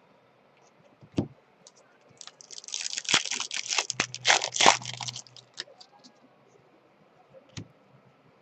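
A trading-card pack's foil wrapper being torn open and crinkled for about three seconds, with a single knock before it and another near the end.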